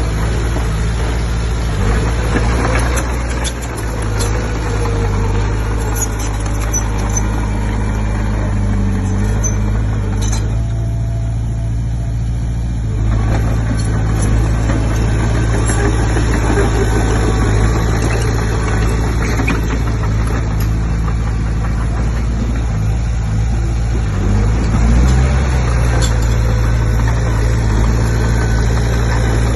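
Komatsu D20P bulldozer's diesel engine running steadily under work, its note shifting a little now and then.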